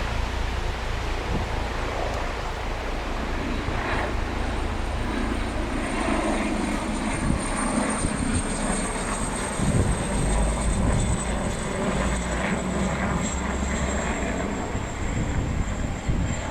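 Embraer ERJ-190 airliner on final approach, its twin General Electric CF34 turbofans giving a high whine that slowly falls in pitch over a low jet rumble.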